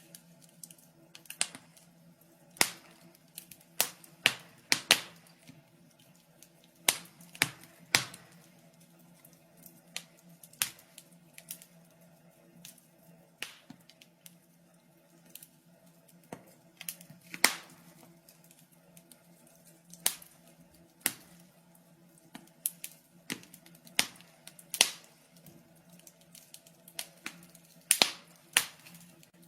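Wood fire in a fireplace crackling: sharp, irregular pops and snaps, several loud, over a faint steady low hum.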